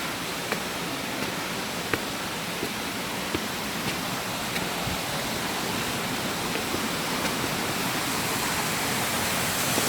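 Waterfall: a steady, even rush of falling water that grows slowly louder, with faint ticks about every two thirds of a second.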